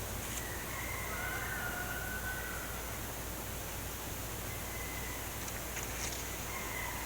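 Steady background hiss with a few faint clicks and paper handling from a photo book being paged through, and faint wavering tones early on and again near the end.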